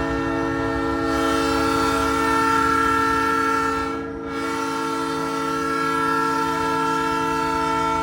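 Nathan Airchime P3 train horn mounted on a semi truck, blowing a long, loud, steady chord. It briefly dips about four seconds in and then sounds on.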